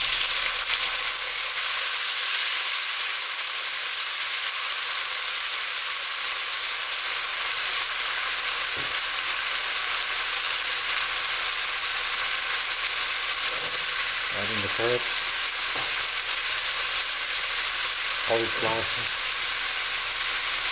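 Chicken breast pieces with garlic and green chilies sizzling steadily in hot oil in a pan, with a little water added to keep them from burning.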